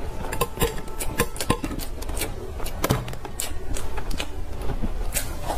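A person chewing and eating soft cream cake: a quick, irregular run of sharp mouth clicks and smacks.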